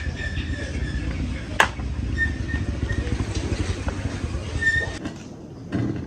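A small motor or engine running steadily with a rapid low pulsing, cutting out about five seconds in.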